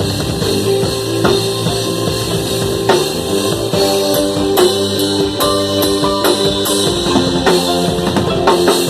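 Drum kit played along with a band: bass drum, snare and cymbal hits over sustained bass and guitar.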